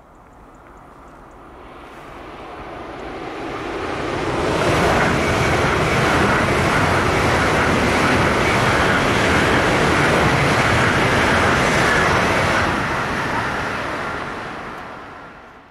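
A Deutsche Bahn ICE high-speed electric train passing at speed: a rushing noise of wheels on rail and air. It swells over about four seconds, stays loud for about eight, then dies away.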